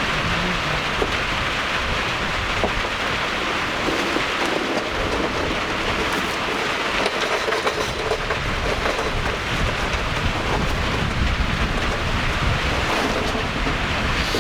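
Water falling steadily from a rainfall-style shower head fed by a small pump, a constant spray.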